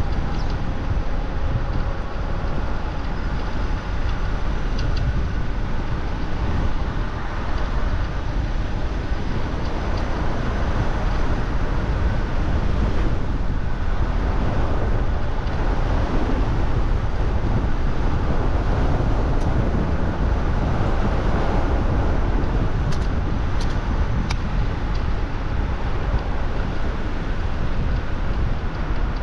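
Steady rush of wind buffeting the microphone, mixed with road noise, on a moving e-bike; a few faint ticks about three quarters of the way through.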